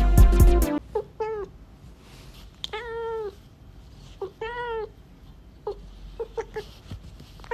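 Electronic music cuts off under a second in. Then a domestic cat meows repeatedly: several short meows and two longer, drawn-out ones.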